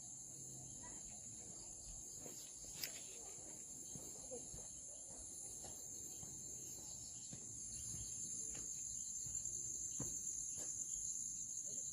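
Crickets trilling steadily in a faint, high-pitched chorus that swells slightly toward the end, with a single sharp click about three seconds in.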